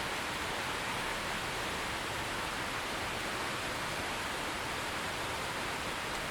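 Steady heavy rain, an even hiss with no single drops or thunder standing out.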